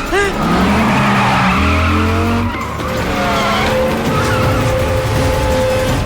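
Car tyres squealing in long skids while the engines run hard.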